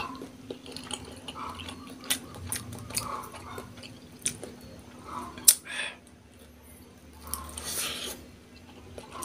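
Close-miked chewing of a large meatball (bakso), broken by sharp clicks of a metal fork on a ceramic plate, the loudest click about halfway through. A faint steady hum runs underneath.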